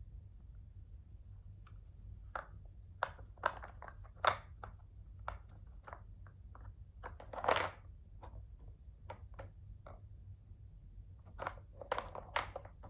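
A cat pawing at a treat puzzle toy: irregular light clicks and knocks, with one longer scrape about halfway through.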